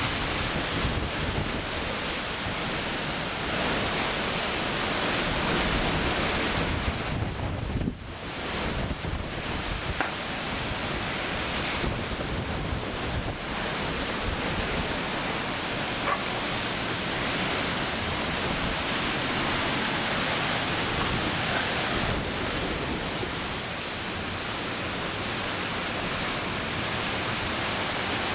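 Hurricane-force wind blowing steadily in gusts, rushing and buffeting the microphone, with a brief lull about eight seconds in.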